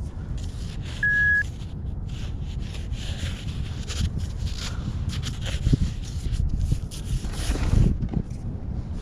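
A metal detector gives one short steady beep about a second in, over a series of short scrapes and rustles and a steady low rumble.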